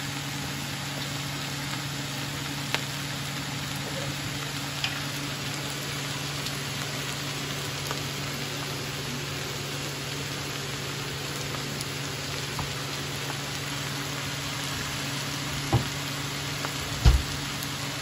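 Shredded bamboo shoots and onions sizzling steadily in a frying pan over a low steady hum, with the wooden spatula knocking against the pan twice near the end.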